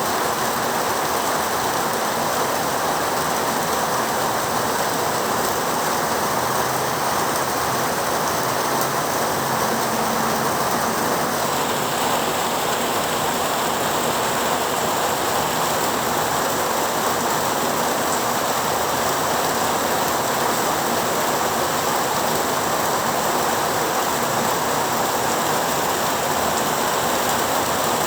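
Heavy rain falling steadily, an even, unbroken hiss whose higher part turns a little brighter about twelve seconds in.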